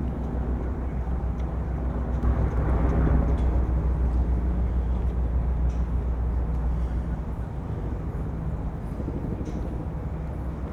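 A motor vehicle's engine running with a low, steady hum; it swells about two seconds in and eases after about seven seconds.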